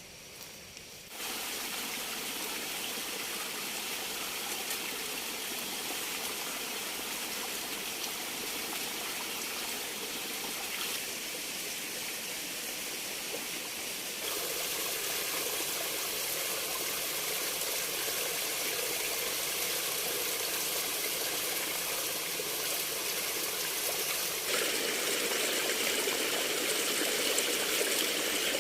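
Water running in a stream: a steady rushing noise that steps up in level about a second in, again about halfway through, and again near the end.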